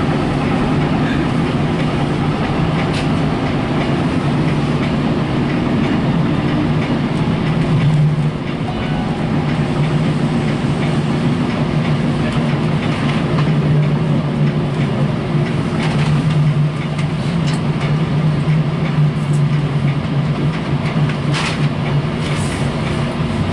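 Passenger train running along the line, heard from inside the car: a steady rumble and low hum, with a few scattered sharp clicks.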